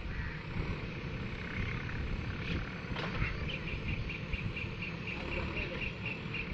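A heavy vehicle's engine running with a steady low rumble. A pair of sharp clicks comes about two and a half seconds in, and a rhythmic high chirping, about four a second, starts a little after three seconds in.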